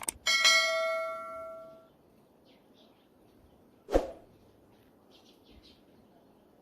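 A metal object struck once, ringing with a clear metallic tone that fades over about a second and a half, just after a couple of sharp clicks. A single hard thump follows about four seconds in.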